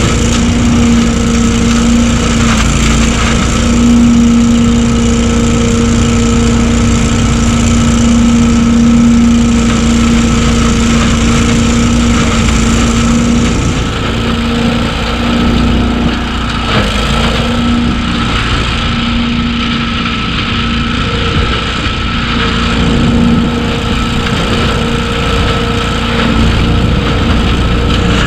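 BillyGoat debris loader (gas-engine leaf vacuum) running steadily at full throttle: a constant engine drone under the rushing of its fan. The hiss eases off slightly about halfway through.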